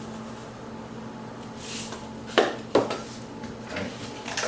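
Kitchen dishes and utensils clattering: a brief hiss, then two sharp knocks about half a second apart, and more knocks near the end.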